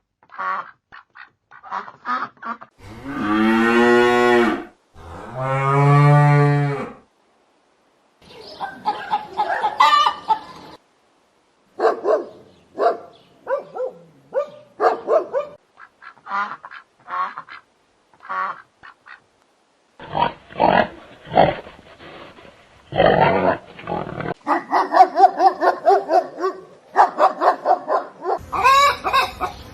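A series of farm animal calls: two long, loud calls a few seconds in, then many short honking calls repeated through the rest.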